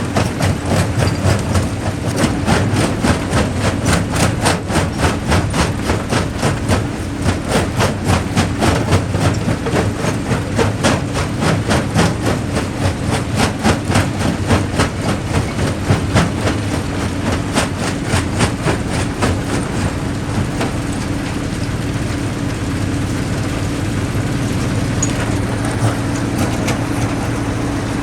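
Jaw crusher at work: a rapid, even run of knocks and rock clatter over the low drone of the machine. About twenty seconds in the knocking fades and the crusher runs on with a steadier hum.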